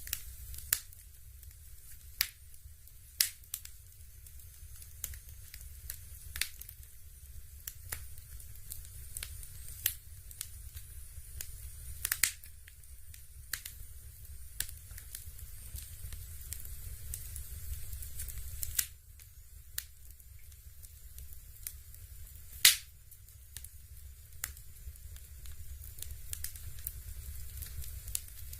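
Electric fireplace playing a simulated log-fire crackle: sharp, irregular pops a second or more apart over a steady low hum.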